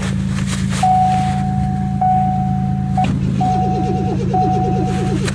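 A cold Ford Torino's starter cranking from about three and a half seconds in, under a steady electronic warning tone that sounds in stretches of about a second. A low steady engine hum runs underneath.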